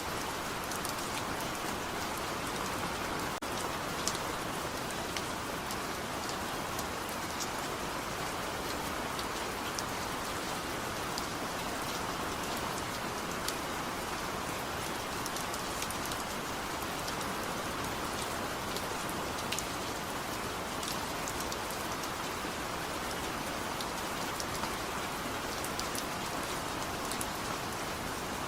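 Steady rain falling on a surface, an even hiss with scattered small ticks of individual drops. There is no thunder.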